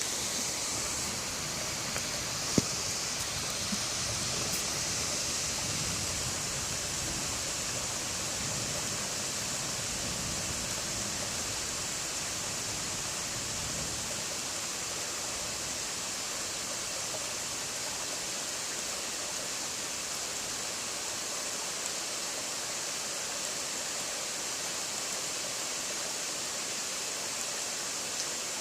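Steady, even hiss of outdoor night background, with a single sharp click about two and a half seconds in.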